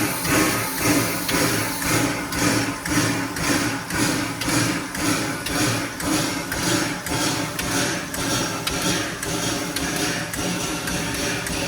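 East Broad Top steam locomotive No. 16 beating out an even, repeating mechanical rhythm, about two beats a second at first and quickening to three or four a second in the second half.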